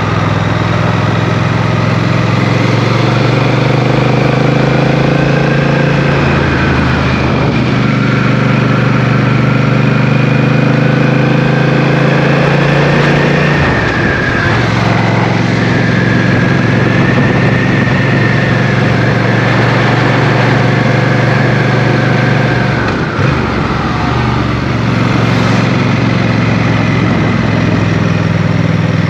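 Motorcycle engine running under way on the road, its note holding steady and shifting with speed, with brief dips in the note about halfway through and again near the end.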